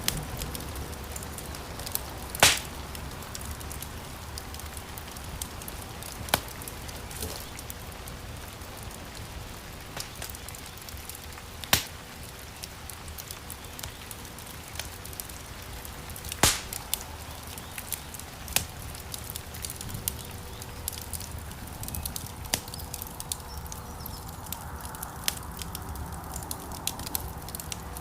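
Wood fire crackling in a fireplace: a steady low rustle of flames with frequent small crackles and a few loud, sharp pops, about two and a half, twelve and sixteen and a half seconds in.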